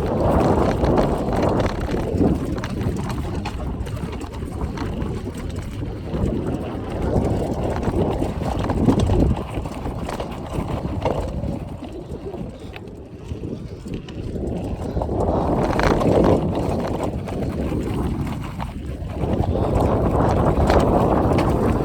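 Wind buffeting the microphone while riding a mountain bike, a low rushing that swells and fades every few seconds.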